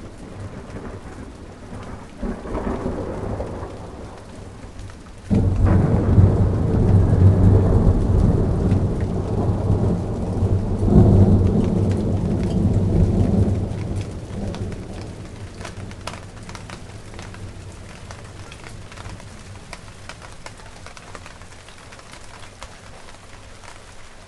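Steady rain falling on garden plants, with scattered drips, and a roll of thunder: a low rumble that swells about two seconds in, breaks loud about five seconds in, rumbles for nearly ten seconds, and then dies away under the rain.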